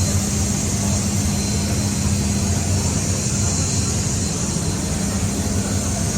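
Aircraft engine running steadily, a low hum under a thin high whine and a hiss, with no change through the stretch.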